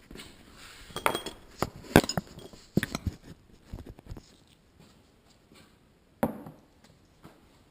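Metal hand tools and parts clinking and knocking as they are handled and set down, a few sharp separate knocks with the loudest about two seconds in and one more near the end.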